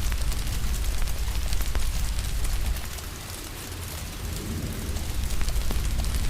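Steady rain with a wood fire crackling, sharp pops scattered through a deep low rumble that eases for a moment about halfway through.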